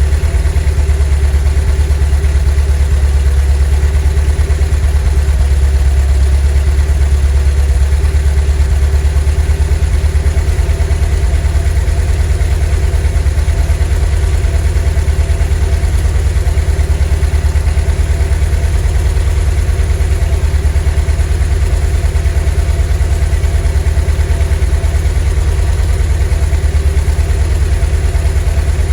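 VW T3 bus's 2.1-litre WBX water-cooled flat-four engine idling, a steady deep-toned run with no change in speed.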